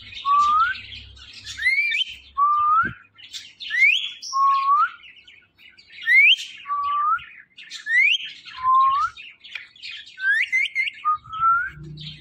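Ringneck parrot whistling a two-note phrase over and over, a high rising whistle followed by a lower rising one, about every two seconds, with soft chattering between. Near the end the notes come quicker.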